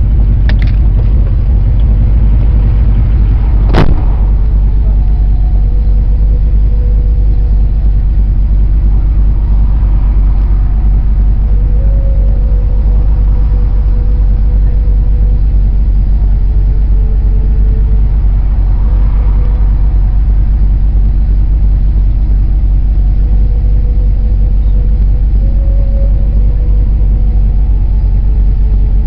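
Vehicle engine idling steadily with a low rumble, with a single sharp click about four seconds in.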